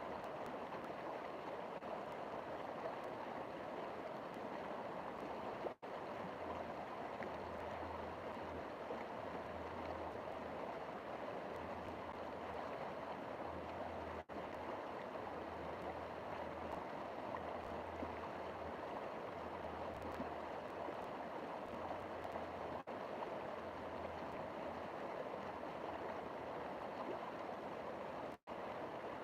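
River water flowing with a steady rush. The sound drops out for a split second four times, about every eight seconds.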